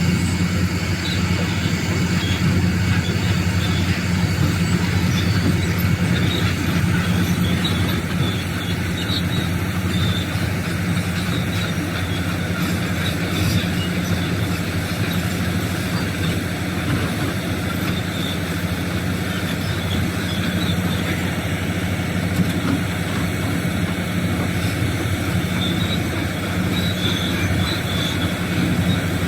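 Doosan DX390 excavator's diesel engine running steadily, a continuous low drone.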